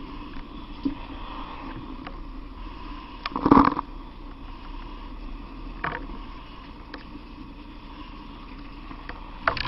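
A steady rushing drone with a low hum, broken by a few short knocks and bumps; the loudest is a clatter about three and a half seconds in.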